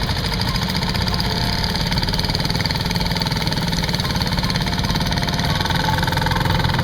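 A tractor engine running steadily with a rapid, even pulse.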